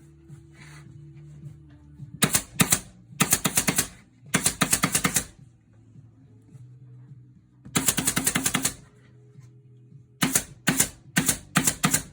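Upholstery staple gun firing in quick bursts of sharp clicks, about ten a second, five bursts with pauses between them.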